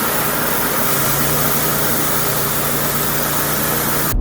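Loud steady machine noise, a dense hiss with a low hum joining about a second in, cut off suddenly near the end.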